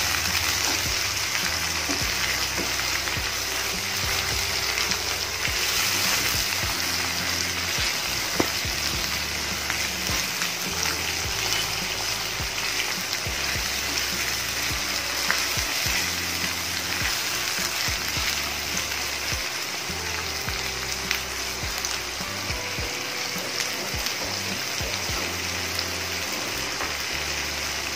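Tomatoes frying in oil with the onion and ginger-garlic masala, a steady sizzle throughout, with soft background music underneath.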